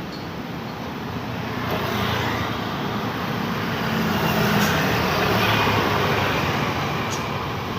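Road traffic on a main road: the steady rush of passing vehicles, swelling as a vehicle goes by from about two seconds in and easing slightly near the end.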